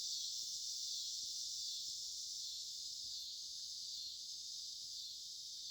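Chorus of cicadas singing at dusk: a steady, high, unbroken buzz with no pauses or pulses.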